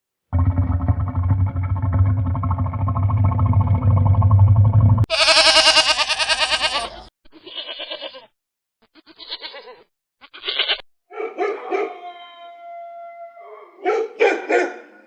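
A run of different animal calls. First comes one long, low call lasting about five seconds, then a shrill, quavering call of about two seconds. After that come several short calls with gaps between them, and a few held calls near the end.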